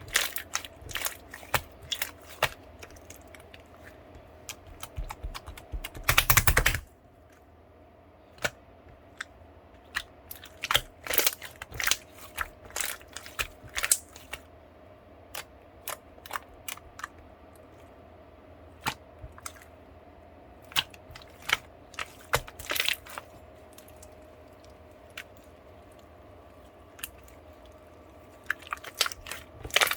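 Soothing-gel slime being squished and pressed by hand, giving irregular sharp clicks and pops, with a louder burst of about a second roughly six seconds in. A faint steady hum runs underneath.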